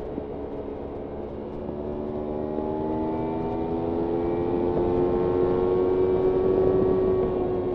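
Kawasaki Ninja 300's parallel-twin engine pulling through one gear under throttle. Its pitch and loudness rise slowly over several seconds, then ease off a little near the end.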